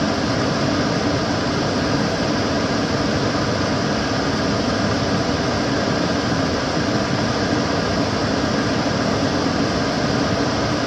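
Kitchen cooker hood extractor fan running steadily: a constant rushing of air with a low hum underneath.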